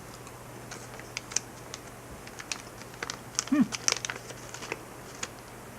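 Scattered crinkles and clicks from a small plastic jerky pouch being handled, thickest about three to four seconds in, with a brief low voice sound in the middle of them.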